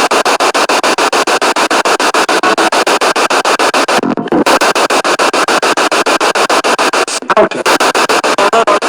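A spirit box, a radio sweeping rapidly through the stations, chopping static and snatches of radio broadcast into about eight short pieces a second. The sweep breaks briefly about four seconds in and again near the end.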